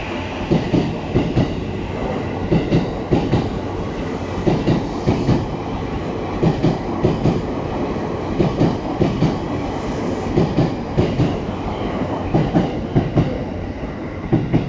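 JR East E233-0 series electric commuter train pulling out and gathering speed past the platform, its wheels clattering over the rail joints in a steady run of quick, often paired knocks over a running rumble. The sound eases slightly near the end as the last cars go by.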